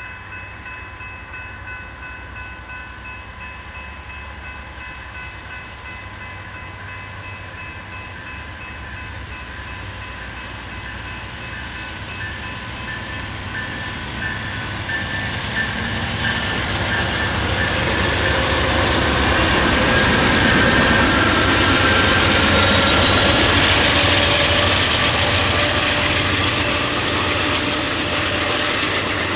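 A train approaching and passing close by. A low rumble runs throughout and grows louder from about halfway, with rushing wheel-on-rail noise that peaks in the last third. Several steady high-pitched tones sound over the first half.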